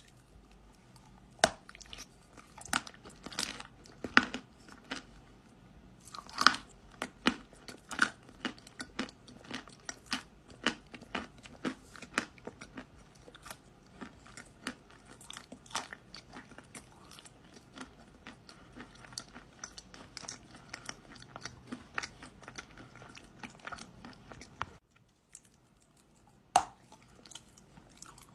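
Close-miked biting and crunching of dry kaolin clay, sharp brittle snaps followed by rapid chewing crunches. There is a short pause near the end, then one loud bite.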